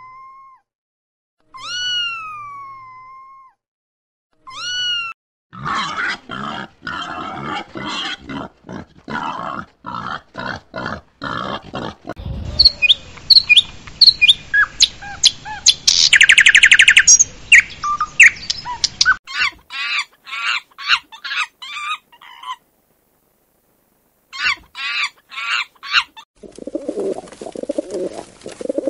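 A string of separate animal-call clips. A cat meows three times, each call falling in pitch. Birds then chirp and tweet, with a fast trill in the middle, for most of the run, and a pigeon starts cooing near the end.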